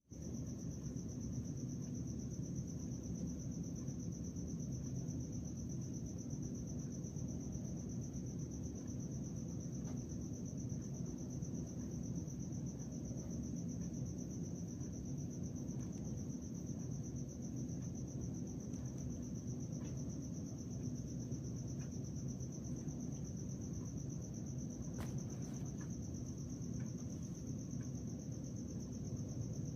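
Crickets trilling steadily, a continuous high-pitched note, over a low steady background rumble.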